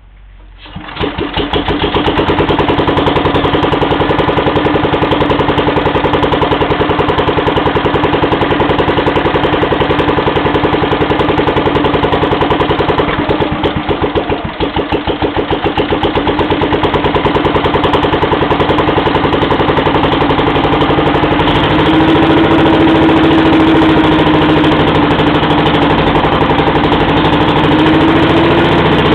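Bernard W110 bis single-cylinder four-stroke petrol engine of 240 cc starting up about a second in, then running steadily while driving a Rotobloc pump. About halfway through its speed briefly sags and then picks up again.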